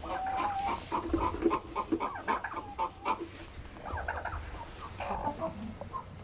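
Broody hens clucking in a busy run of short calls, with a few light knocks among them.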